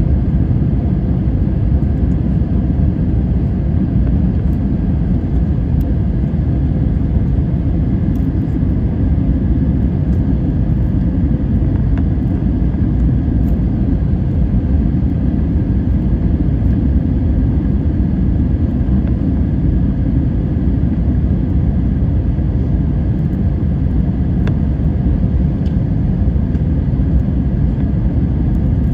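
Jet airliner's steady low rumble of engines and airflow, unchanging throughout, with a faint steady hum of tones above it.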